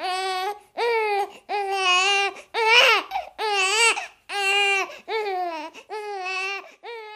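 Repeated high-pitched crying wails, like a baby crying: about nine wails, each under a second, with short breaths between them. The last wail is weaker and trails off.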